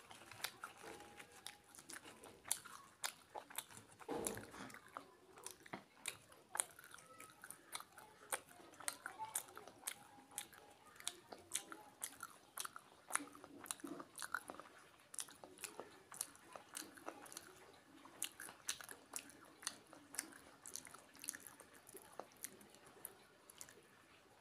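Close-up chewing of kochuri, a fried stuffed flatbread, with chickpea and potato curry: a steady run of small wet mouth clicks and soft crunches, several a second.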